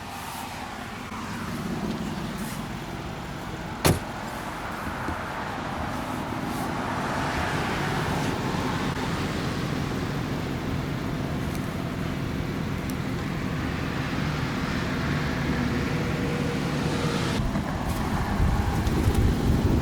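Mercedes-Benz G500's twin-turbo V8 idling steadily with its engine still cold, the exhaust drone growing a little louder over time. A single sharp thump about four seconds in.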